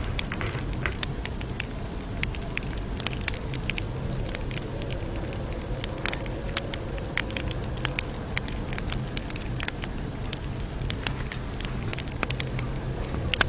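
Campfire crackling: irregular sharp pops and snaps of burning wood over a low, steady rumble of flame.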